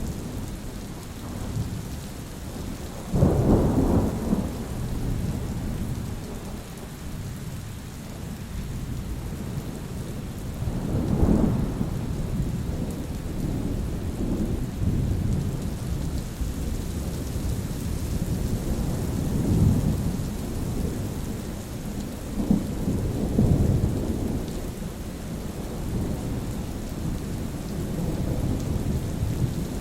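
Steady rain falling, with thunder rumbling low several times: a sharp-onset clap about three seconds in, then further rolls of thunder through the rest.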